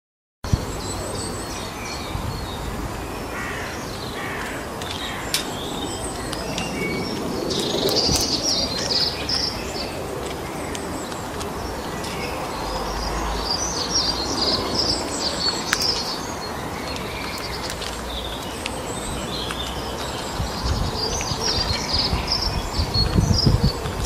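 Small birds chirping and twittering in repeated bursts over a steady outdoor background hiss, with a few sharp clicks.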